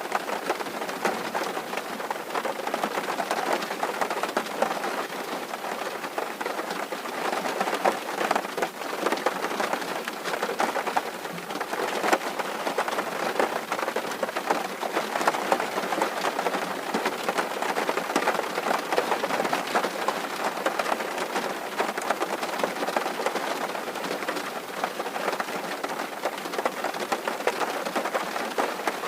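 Steady rain drumming on a tin roof: a dense, even patter of countless small drop impacts on sheet metal.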